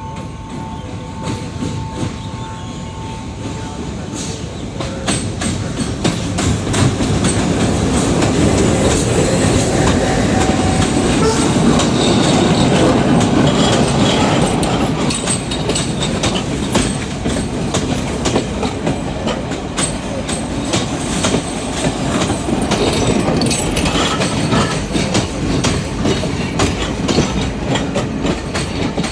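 Commuter train running along the track, its wheels clattering over the rail joints; it grows louder over the first several seconds and then stays close and steady.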